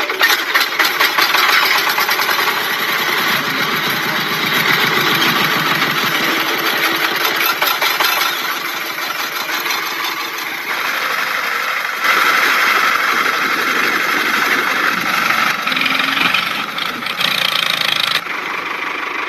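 A small motor running steadily with a fast whirring pulse. Its tone and level shift abruptly a few times.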